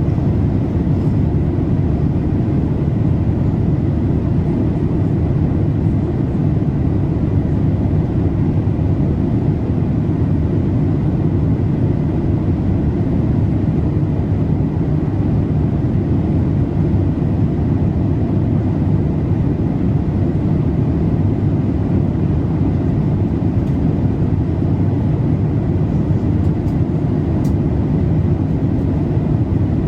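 Steady cabin noise inside a Boeing 787-8 in flight: an even, low rush of airflow and engine noise that does not change.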